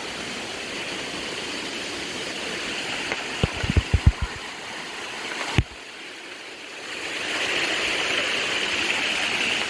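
Steady rush of running water, like a stream or small waterfall. A quick run of low thumps comes a few seconds in, then one sharp click, after which the water sound drops away before swelling back up.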